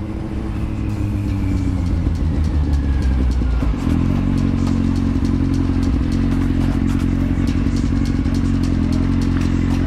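Kawasaki Z750's inline-four engine running as the motorcycle is ridden. The engine pitch falls over the first three or four seconds, then holds steady.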